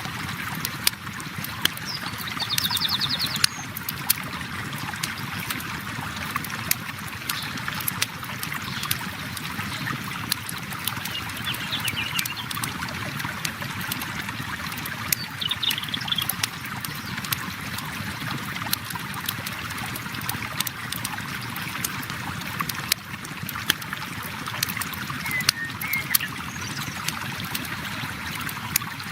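River water flowing steadily, mixed with a crackling campfire's frequent sharp pops and snaps, and a few short bird chirps now and then.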